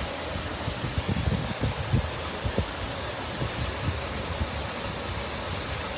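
Water gushing from a sheared-off fire hydrant as a steady, even hiss, with brief low rumbles in the first couple of seconds.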